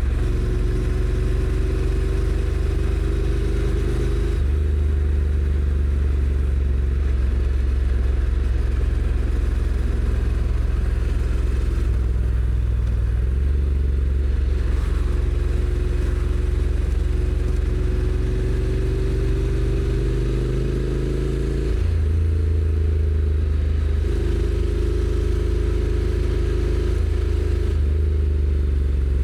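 Honda NC750X's 745 cc parallel-twin engine on the stock exhaust, running under way. Its note climbs slowly in pitch, then changes abruptly a few times, as the dual-clutch transmission shifts.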